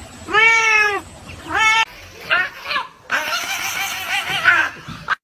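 A cat meowing: one long arched meow about half a second in, a shorter meow, a couple of quick short ones, then a longer wavering yowl that cuts off suddenly.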